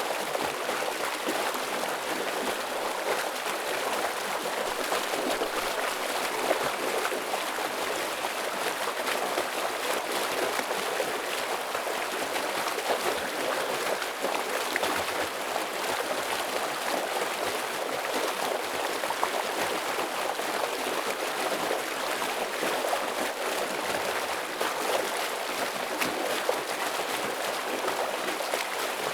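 A forest stream running heavily over rocks: steady rushing and splashing water with fine gurgles throughout.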